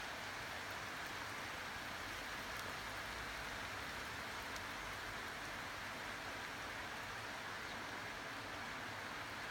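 Steady rain from a thunderstorm, an even hiss with no thunder clap in it.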